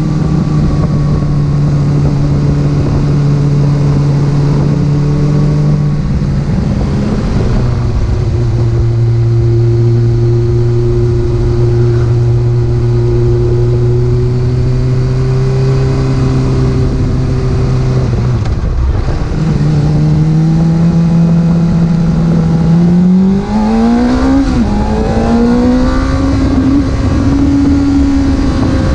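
Porsche engine pulling steadily on the move. Its pitch drops about six seconds in, as on an upshift, falls away briefly later on, then climbs quickly near the end and holds at higher revs.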